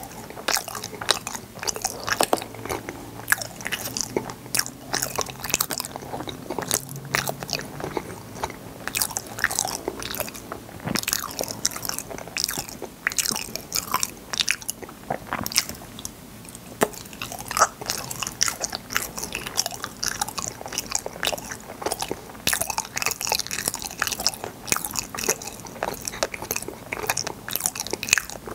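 Close-miked chewing of soft, sticky fruit yanggaeng (Korean bean-paste jelly), with a steady stream of wet smacking and clicking mouth sounds.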